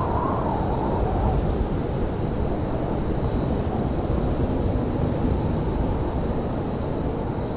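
Railyard ambience: a steady low rumble, with a constant thin high-pitched whine over it.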